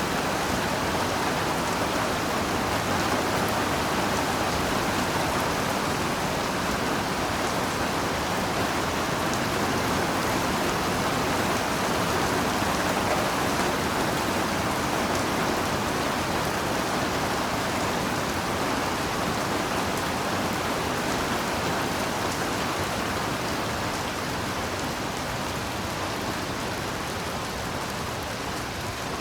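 Heavy rain falling steadily: a dense, even hiss of rain on leaves and ground, with no thunder, easing slightly near the end.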